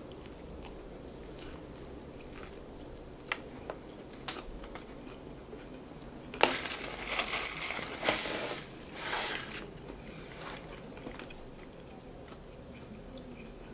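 Close-miked chewing of crunchy fried chicken: scattered small mouth clicks, then a loud stretch of crunching from about six to nine and a half seconds in.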